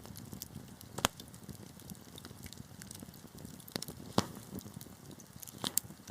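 Wood fire crackling: a steady low rumble and hiss, with sharp pops every second or so. The loudest pops come about a second in and just past four seconds.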